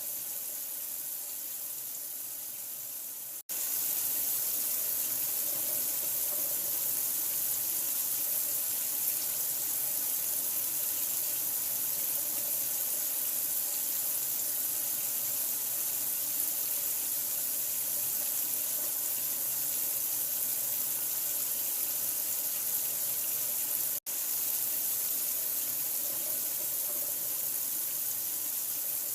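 Steady rushing of running water, an even hiss, played as a sleep sound for a newborn. It cuts out for an instant twice, about three and a half seconds in and again near the end, coming back slightly louder after the first break.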